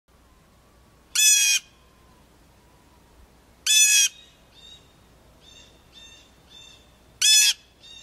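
Bird calls: three loud, harsh calls a few seconds apart, each about half a second long, with fainter, shorter calls repeating in between.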